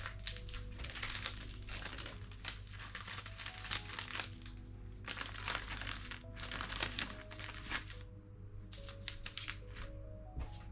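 Repeated crinkling and rustling of packaging being handled in short, irregular bursts, over soft background music with long held notes.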